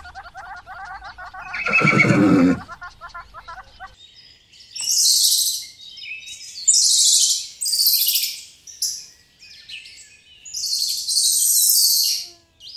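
A horse whinnying, the wavering neigh trailing off over the first few seconds. It is followed by a series of high, chirping bird calls in about five separate bursts.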